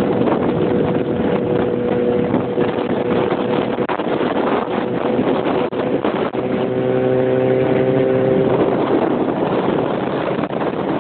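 Motorcycle engine running steadily with wind on the microphone; the engine note shifts in pitch for a couple of seconds about two-thirds of the way through.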